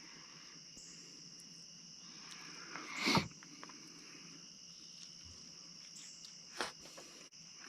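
Night insects, crickets, chirring in a steady high-pitched chorus. Two brief noises close by break in, the louder about three seconds in and a smaller one near the end.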